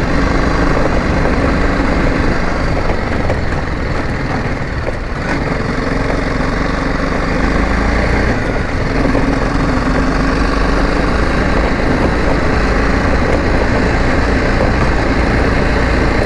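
Motorcycle engine running steadily while riding, with heavy wind rumble on the bike-mounted camera's microphone.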